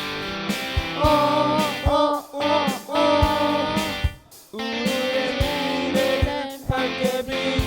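Pop song with children singing over a guitar backing track with a steady drum beat; the music drops out briefly about halfway through.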